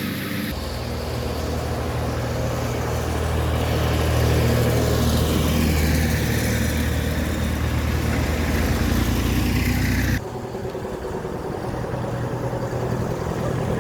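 Vehicle engines running with a steady low drone, which changes abruptly about half a second in and again about ten seconds in.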